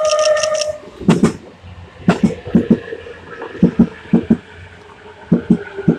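E257 series electric train rolling slowly past a station platform, its wheels knocking over the rail joints in quick pairs, one pair for each bogie, over a low rumble. The tones of a station platform jingle die out within the first second.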